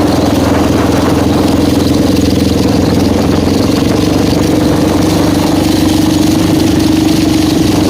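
400cc quad bike engine idling steadily.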